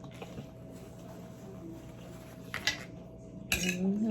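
Close-miked eating sounds over a steady faint hum: a couple of soft utensil clicks about two and a half seconds in, then near the end a louder bit of mouth noise with a short hummed tone that rises slightly.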